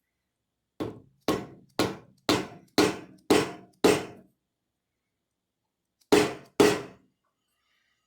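Hammer blows: seven evenly spaced strikes at about two a second, then a pause and two more strikes near the end. Each lands with a short, dull ring that dies away quickly rather than a long anvil clang.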